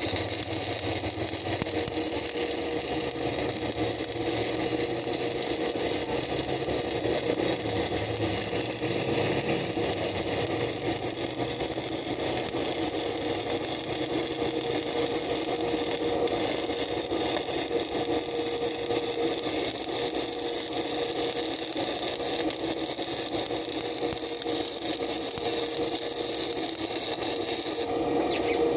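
Stick-welding arc crackling and hissing steadily through one long continuous bead, stopping near the end, over a steady machine hum.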